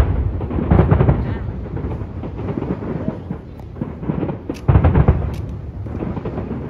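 Aerial firework shells bursting in rapid volleys, a run of deep booms with crackling between them. The loudest clusters of bursts come at the start, about a second in, and again about five seconds in.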